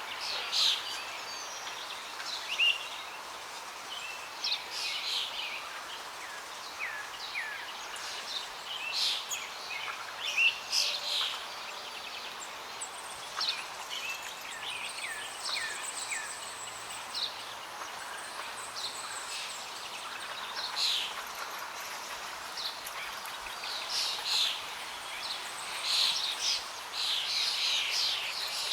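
Wild birds chirping and calling: many short high notes and quick downward-sliding whistles in irregular bursts, over a steady background hiss.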